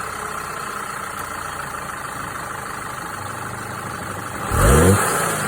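Car engine idling just after a start, then revved once in a quick blip about four and a half seconds in, rising in pitch and dropping back to idle.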